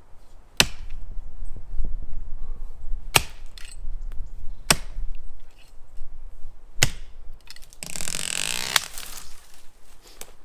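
Axe chopping into the trunk of a small tree, four single blows a second or two apart. Near the end comes a rush of crackling, swishing noise lasting about a second and a half.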